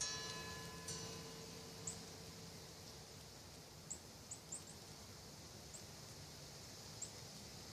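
Wind chimes made from old hacksaws and saw blades struck by the wind once at the start, ringing with several steady tones that fade over a few seconds, with a second lighter strike about a second in. Short, high bird chirps come at intervals through the rest.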